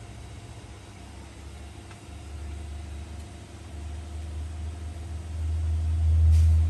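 Low rumble of a vehicle engine running, growing steadily louder over the last few seconds.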